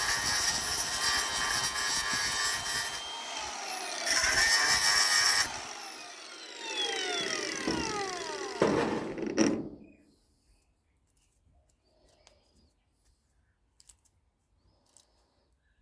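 Handheld power tool running under load, eased off briefly about three seconds in and run hard again. It is then switched off and winds down in a falling whine that dies away about ten seconds in, leaving near silence with a few faint ticks.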